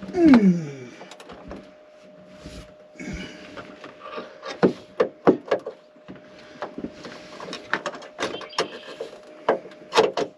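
Irregular clicks and knocks of metal parts and tools as a bolt is worked into place during a battery bank installation. The loudest sound is a brief falling creak or groan in the first second, and a faint steady hum runs underneath.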